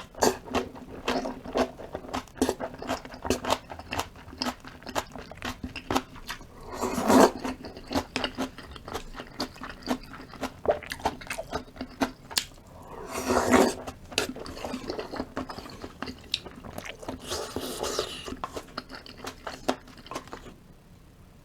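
Close-miked mouth sounds of eating: continuous crunchy chewing of kimchi with wet mouth clicks. Louder rushing swells come about 7, 13 and 18 seconds in. The chewing stops about a second before the end.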